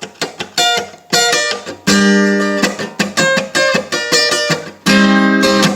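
Acoustic guitar playing an instrumental passage: strummed chords and single notes, many cut short into a choppy rhythm, with a couple of chords left ringing longer.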